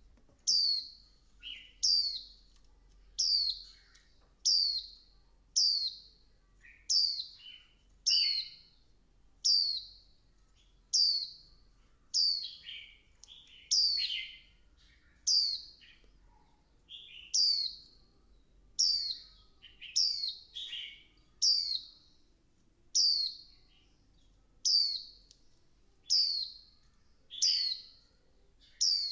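Female white-eye calling: a short, high call that falls in pitch, repeated about every second and a half, some with a lower second note. It is a female's call of the kind used to provoke male white-eyes into song.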